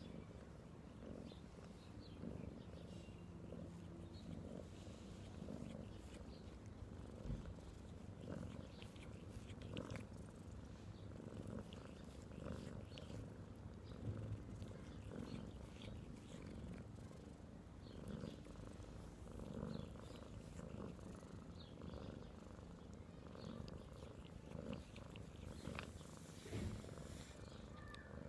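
Domestic cat purring steadily in a low, pulsing rumble, with a few faint clicks.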